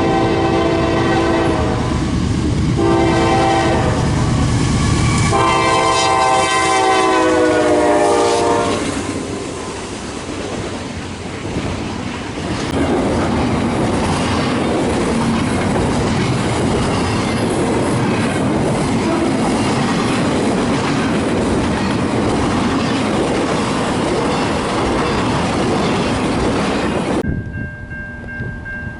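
Diesel locomotive air horn sounding three blasts, the last and longest dipping in pitch as the train passes, followed by the train rolling by with steel wheels clattering over the rail joints and crossings. The sound cuts off abruptly near the end.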